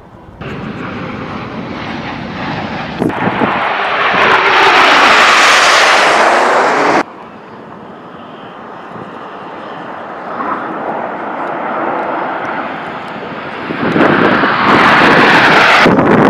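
Airplanes flying past in a series of cut-together clips: engine noise swells to a loud pass with a sweep in pitch, cuts off abruptly about seven seconds in, runs quieter, then builds loud again near the end.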